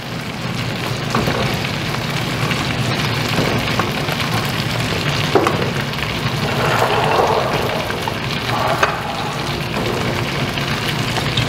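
Chicken pieces frying in hot oil in a metal wok: a steady sizzle, with a few light clicks.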